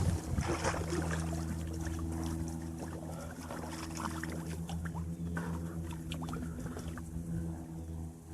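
Jet ski engine idling steadily, with light water sounds.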